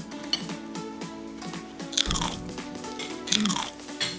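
Close-up crunching and chewing of fried galunggong (round scad) fish, with two loud crunches about two seconds and three seconds in, over steady background music.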